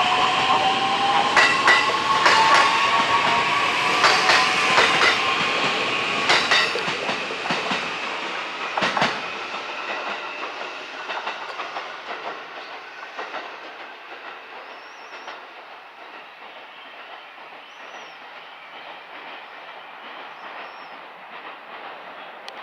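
JR East E131 series electric train pulling away, its hybrid SiC IGBT VVVF inverter giving a rising whine as it accelerates, with paired wheel clicks over rail joints. The sound fades steadily as the train leaves, dying to a faint rumble after about twelve seconds.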